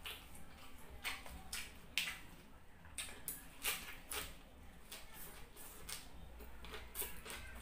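Curly green lettuce leaf being torn from the head, then bitten and chewed close to the microphone: irregular crisp crunches and mouth clicks, the sharpest about two seconds in.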